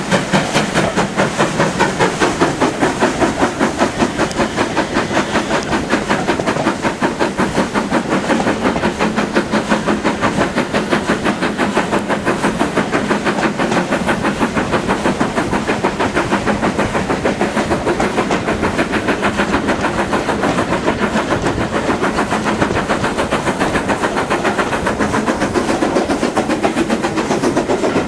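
Train on the move on a heritage railway line, with a steady rapid beat of about four pulses a second that carries on unbroken.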